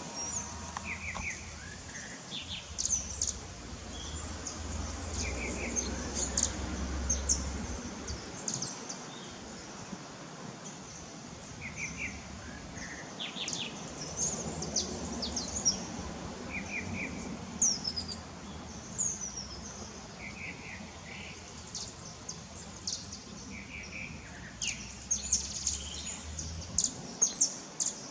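Several birds chirping, with short high calls scattered throughout and one brief chirping phrase repeated every few seconds, over a low outdoor rumble.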